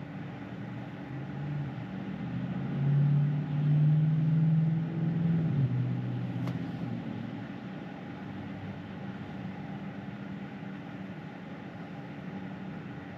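Steady road and tyre noise inside the cabin of a moving Tesla Model 3. A louder low hum swells from about two seconds in and fades out by about six seconds, and there is a brief click just after it.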